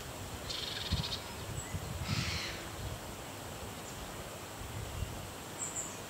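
Two harsh, rasping bird calls, the first a rattling call about half a second in, the second about two seconds in, with a few low bumps on the microphone.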